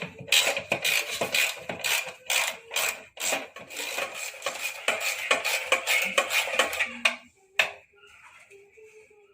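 Metal being worked by hand in quick repeated scraping and clinking strokes, stopping about seven seconds in, followed by a single sharp knock.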